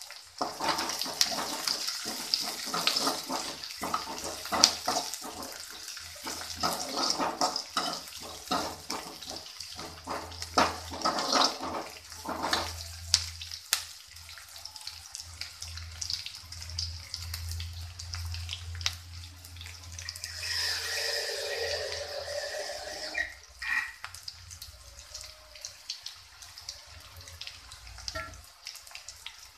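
Sliced shallots, green chillies and curry leaves sizzling and crackling in hot oil in a steel kadai. A perforated steel ladle clatters and scrapes against the pan through the first half, then the frying goes on more quietly.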